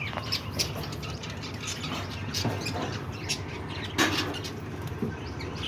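Budgerigars calling in many short, scattered chirps, with one louder call about four seconds in.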